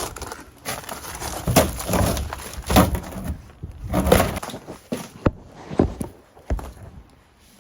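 Footsteps crunching on icy, snow-crusted ground, one step about every second, growing fainter near the end.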